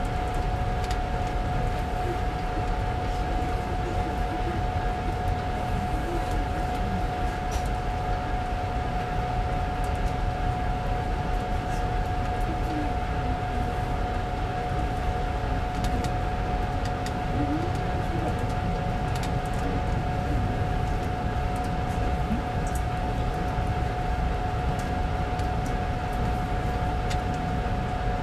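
Alaska Railroad passenger car rolling along the track: a steady low rumble with a constant high whine over it and a few light ticks.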